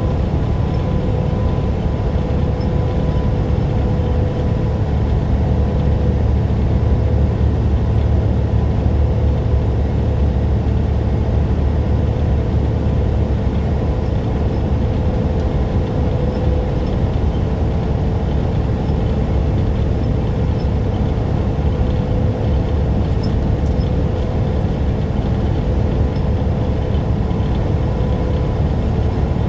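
Tractor-trailer truck driving at a steady speed: a constant low engine drone mixed with tyre and road noise, with a faint steady hum above it.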